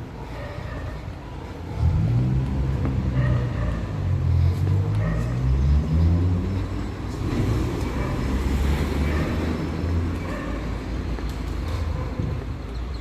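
A car engine accelerating, its pitch rising from about two seconds in, over steady street traffic noise.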